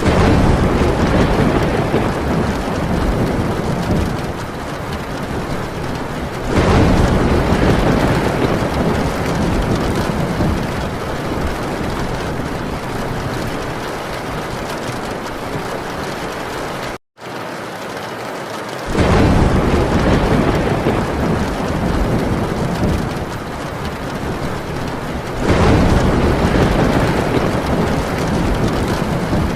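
Heavy rain drumming steadily on a metal tin roof, with four long, deep rolls of thunder swelling over it: one right at the start, one about a third of the way in, and two more in the last third. The sound cuts out for a split second a little past the middle.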